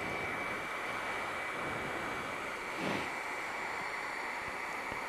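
Hair dryer running on high, a steady blowing hiss with a constant high whine, aimed at a frozen motorcycle lock to thaw it. The blowing briefly swells about three seconds in.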